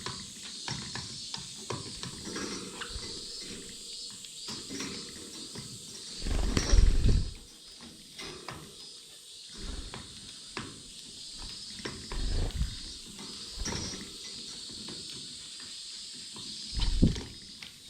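Small aviary finches (Gouldian finches, society finches and canaries) chirping steadily and pecking seed close to the microphone, with many quick clicks. Three loud, muffled low thumps stand out, about a third of the way in, in the middle and near the end.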